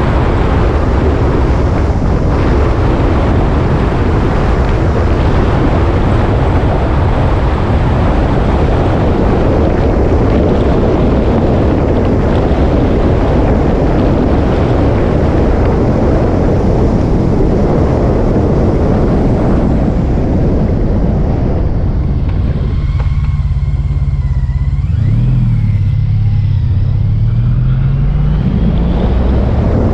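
Motorcycle riding along with a heavy rush of wind and road noise over the engine. About 22 seconds in the rush drops away as the bike slows, and the engine note comes through clearly, rising as it accelerates again near the end.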